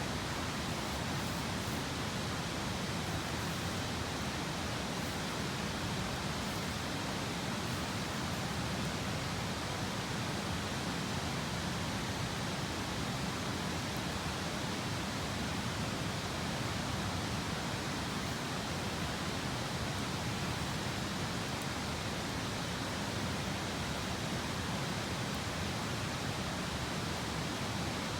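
Steady, even rushing of a river flowing past, with no change in level.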